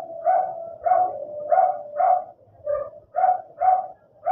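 A dog barking repeatedly, about two barks a second, in an even run.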